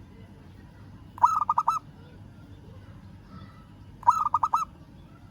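Local zebra dove (perkutut) cooing twice, each call a quick run of about five rolling notes lasting about half a second, roughly three seconds apart. It is the bird's call to a rival.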